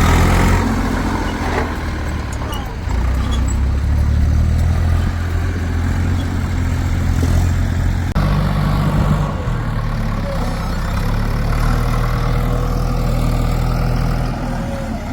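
Heavy diesel engine of working farm and earth-moving machinery, running steadily with a low engine note. The note changes abruptly about eight seconds in.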